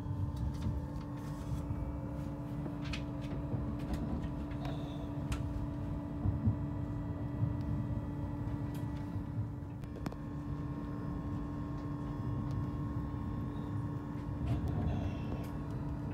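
Cabin noise inside a moving passenger train: a steady low rumble from the wheels and running gear under a constant hum, with scattered short clicks and knocks.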